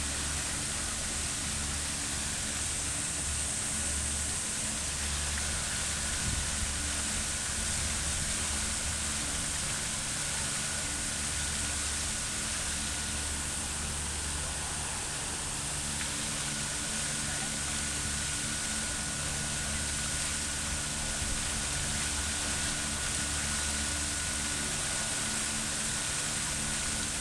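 Fountain water splashing and spraying in a steady rush, with a faint low hum underneath.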